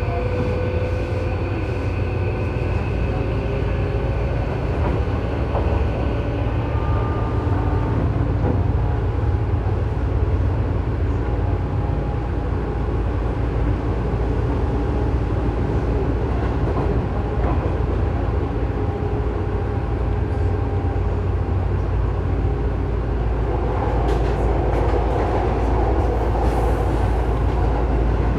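Tobu 9000-series electric train running, heard from inside the car directly above its armature chopper controller: a steady low rumble of wheels and motors with thin whining tones from the chopper, whose chopper in this car makes an abnormal noise. Some sharper crackling comes in near the end.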